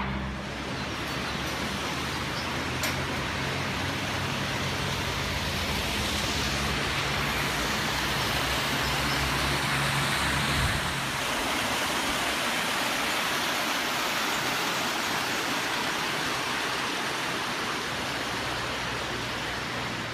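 Steady road and tyre rush of a car being driven, with a low engine hum that drops away about halfway through.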